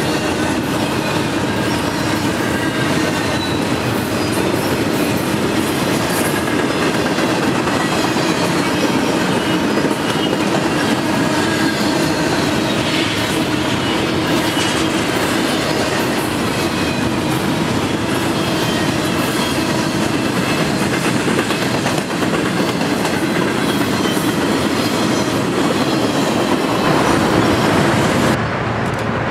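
Double-stack intermodal freight train's loaded well cars rolling past close by: a loud, steady rumble and clatter of steel wheels on rail, with faint high-pitched wheel squeals coming and going.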